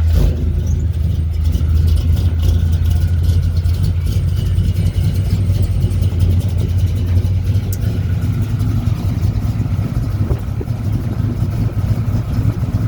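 A motor vehicle running: a steady low rumble with crackling over it.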